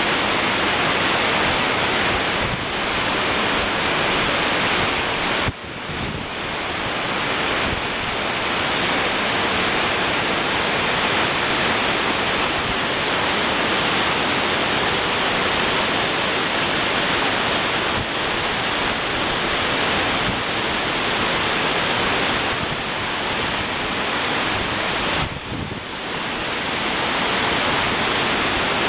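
Waterfall: a loud, steady rush of falling water, dipping briefly twice, about six seconds in and again near the end.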